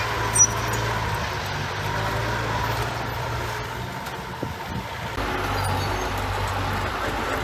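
Heavy diesel engine of construction machinery running steadily, with a sharp knock about half a second in. The engine sound drops back briefly a little past the middle and comes up fuller again about five seconds in.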